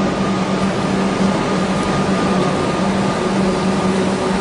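Melbourne suburban electric train running past a station platform: a steady rush and rumble of wheels on rails, with a steady low hum under it.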